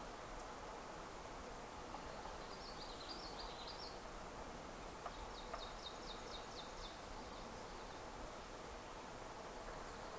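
Faint, steady marsh ambience with distant high-pitched bird calls: a short warbled phrase about 2.5 seconds in, then a quick run of about eight falling notes around the middle. Two soft clicks come just before the second phrase.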